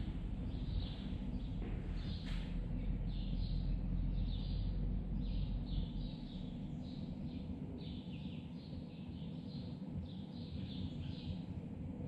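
Small birds chirping in quick, repeated short notes, over a low rumble that is heavier in the first half.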